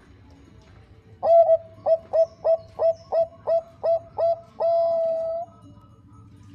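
Zebra dove (Bangkok-type perkutut) singing its cooing song. It gives an opening coo, then eight short clipped coos about three a second, and ends on one long held coo of nearly a second.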